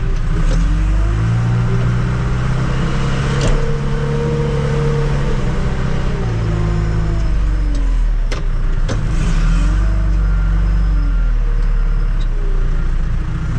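Tractor-loader-backhoe's diesel engine running steadily, its pitch rising and falling several times as the throttle is worked to drive the loader hydraulics, with a couple of short knocks along the way.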